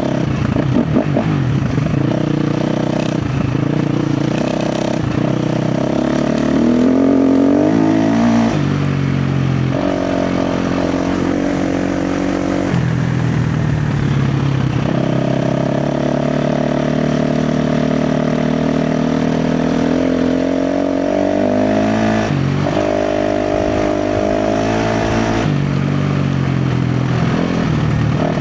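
KTM 350 XC-F dirt bike's single-cylinder four-stroke engine revving with the throttle under riding load, its pitch climbing over several seconds and then dropping sharply, several times over.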